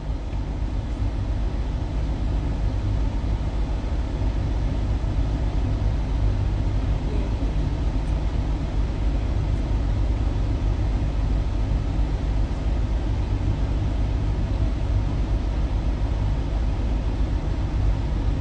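Steady low rumble of a semi-truck's diesel engine idling, heard from inside the parked truck's cab.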